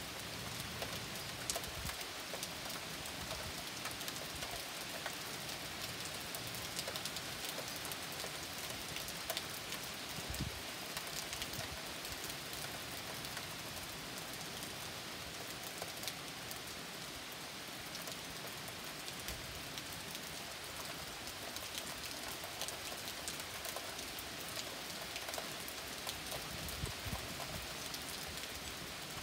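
Steady rain falling during a storm, with many single drops ticking close by over an even hiss.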